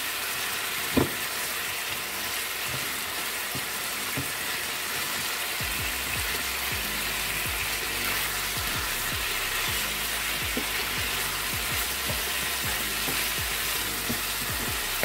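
Chicken pieces searing in hot oil in a stainless-steel pan with a steady sizzle, and a wooden spoon scraping and knocking against the pan as they are stirred and turned. One sharper knock comes about a second in.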